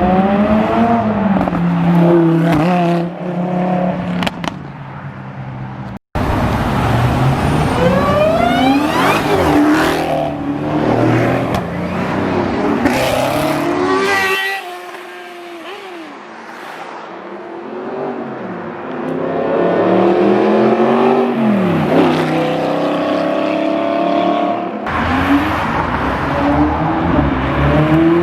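Car engines revving, the pitch climbing and falling with each blip of the throttle, heard in several short clips cut together; the sound drops out for a moment about six seconds in and changes abruptly twice more later.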